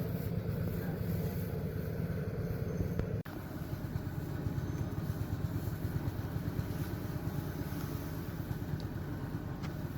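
A small engine running steadily at an even speed, with a brief break a little over three seconds in.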